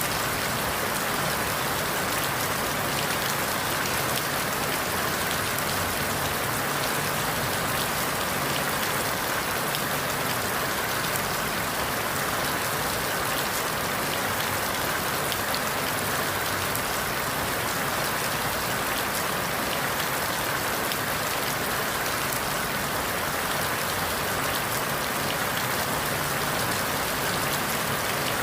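Steady rain falling through forest leaves: an even hiss of rain with the patter of individual drops.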